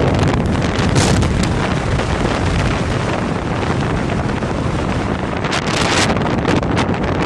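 Strong wind buffeting the microphone: a loud, rumbling noise with no letup, gusting harder about a second in and again near six seconds.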